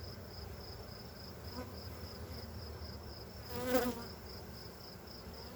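Honey bees buzzing steadily around an open hive as its frames are inspected, with a high pulsing chirp about three times a second in the background. A short, louder pitched sound comes about two-thirds of the way through.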